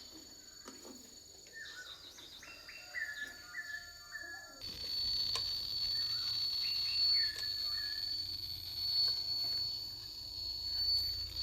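Short, repeated bird chirps over a steady high-pitched whine. About four and a half seconds in, a low hum comes in suddenly and the whine grows stronger.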